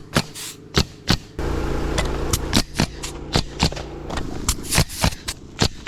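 A pneumatic roofing nailer firing about fifteen sharp shots in irregular quick succession, while a gas-engine air compressor runs steadily underneath and grows louder about one and a half seconds in.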